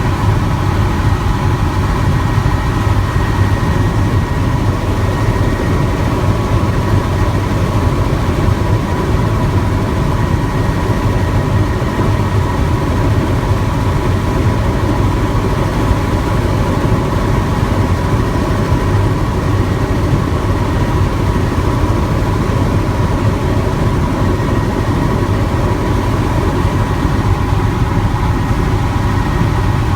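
Helicopter in flight: a steady drone of engine and rotor, with a steady thin whine running through it.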